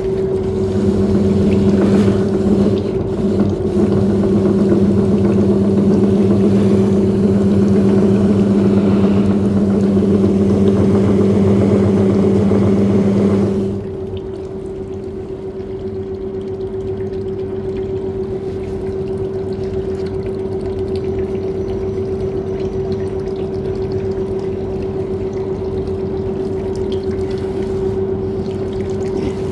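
Washing machine running with shoes inside: a steady motor hum under water churning and sloshing. About halfway through the louder churning and its lower drone cut off suddenly, and only the steady hum goes on.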